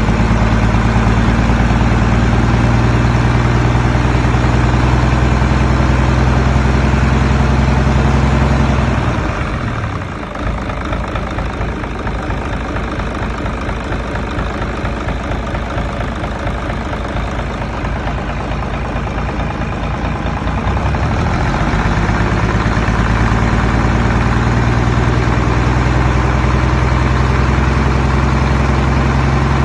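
Isuzu 6HH1 inline-six diesel engine running on test at a raised speed. It drops to a slow idle with distinct firing pulses about nine seconds in, then is brought back up to the higher speed just after twenty seconds.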